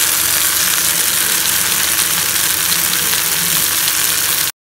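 Onion-tomato masala with boiled potato pieces sizzling in a frying pan: a steady hiss that cuts off suddenly near the end.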